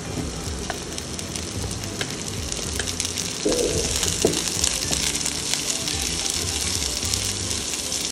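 Diced onions tipped into a pan of frying garlic and hot oil, sizzling, with the slotted spatula scraping and tapping the nonstick pan; the sizzle grows louder about three seconds in as the onions hit the oil. Background music plays underneath.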